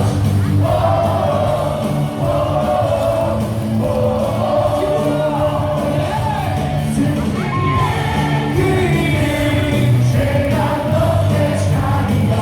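Baseball stadium crowd singing a team cheer song together over loud music from the stadium speakers.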